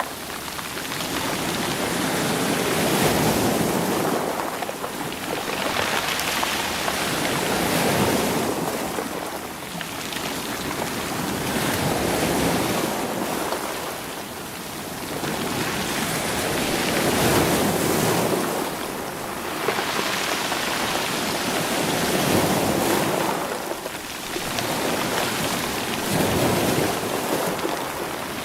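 Sea waves washing in against rocks and rolling the stones, the surf swelling and drawing back about every four to five seconds.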